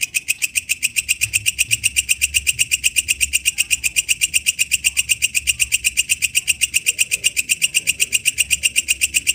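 Walang kecek bush cricket calling: a steady, loud, high-pitched ticking of about eight rapid pulses a second, starting abruptly.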